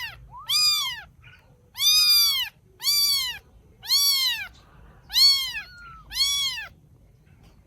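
Baby kitten meowing over and over, high-pitched calls that each rise and fall, about one a second, then stopping shortly before the end.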